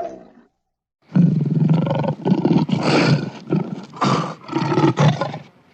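A big cat roaring in a series of short, rough, low calls, about two a second, starting after a second of silence.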